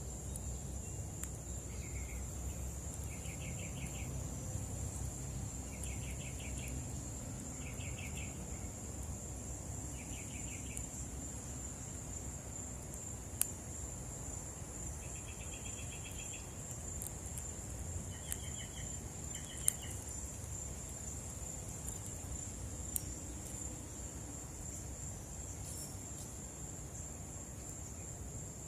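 Insects chirring in one steady high-pitched drone, with short trilled bird calls repeated every second or two through the first twenty seconds and a few sharp clicks.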